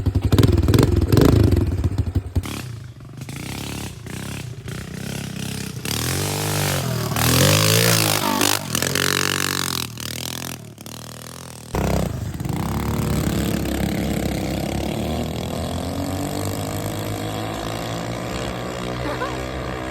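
Small mini pit bike engine running, its pitch swinging up and down several times as it is revved. About twelve seconds in it comes on suddenly louder, then runs steadily.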